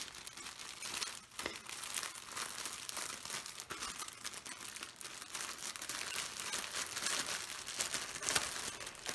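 Thin plastic bag crinkling steadily as it is handled and worked open by hand, a dense run of fine crackles.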